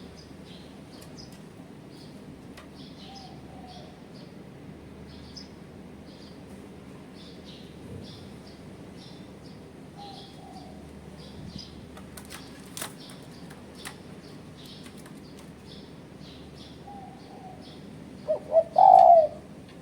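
Spotted dove (tekukur) cooing: a few faint coos, then a loud three-part coo near the end. Small birds chirp high and continuously throughout.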